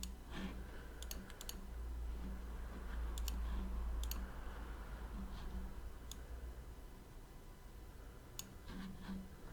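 Scattered sharp clicks at a computer, about a dozen, irregularly spaced, over a low steady hum.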